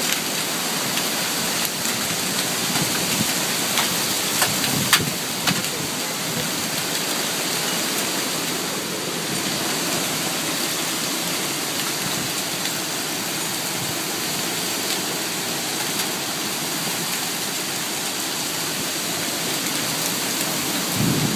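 Heavy rain falling steadily in a storm, with a few sharp ticks about four to five seconds in.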